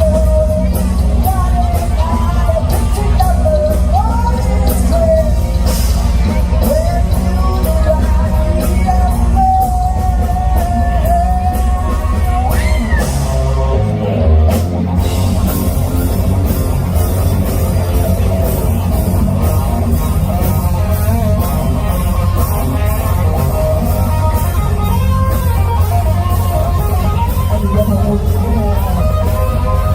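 Live rock band playing loud over bass and drums: a lead line with bending notes for about the first half, then a brief break and the band carrying on in full, sustained chords.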